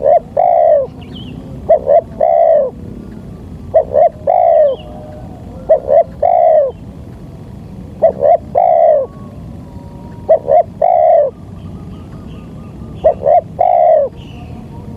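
Spotted dove (tekukur) cooing its three-part call, two short notes and then a longer note falling in pitch, repeated seven times at about two-second intervals.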